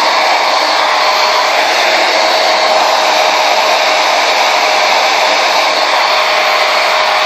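Conair Yellow Bird 1875-watt blow dryer running at a steady loud rush of air, with a faint steady whine from its motor.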